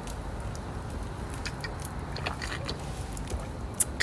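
Quiet eating: a few faint clicks and crunches of someone chewing grilled crab, over a steady low rumble.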